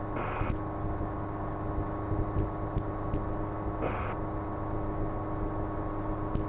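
Steady drone of a Schweizer 300C helicopter in flight, its four-cylinder Lycoming piston engine and rotors heard in the cabin as a constant hum with a low tone and several higher steady tones. Two brief bursts of hiss come through, one at the start and one about four seconds in.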